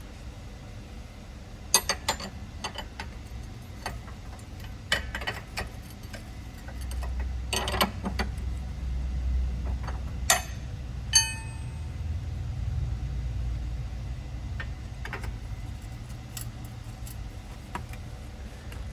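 Hand tools working on bolts: a socket ratchet clicking and metal tools clinking in short clusters. About eleven seconds in, a metal tool strikes something and rings briefly. A low hum runs underneath.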